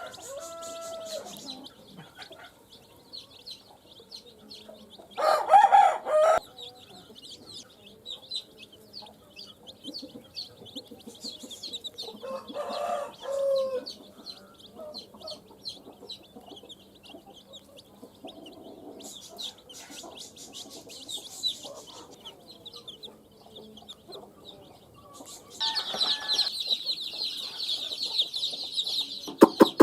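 Baby chicks peeping continuously in thin, high chirps. An adult chicken calls loudly twice, once about five seconds in and again around thirteen seconds. The chicks' peeping grows denser and louder near the end.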